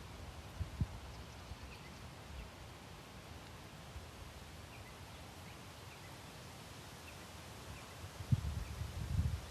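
Wind buffeting the microphone in low rumbling gusts, strongest near the end, with faint short high chirps from birds.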